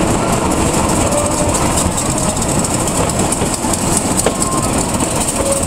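Train rolling out of a station: steady noise of wheels running on the rails, with a few faint clicks over rail joints.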